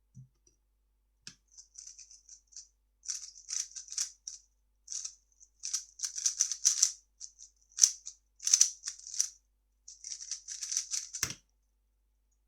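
A 3x3 speedcube being turned fast through a solve: rapid clicking and rattling of the plastic layers in quick runs with brief pauses, ending in a sharp thump near the end.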